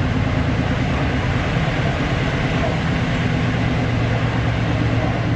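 Long Island Rail Road M3 electric multiple-unit train running, heard from on board: a steady drone with a low hum underneath.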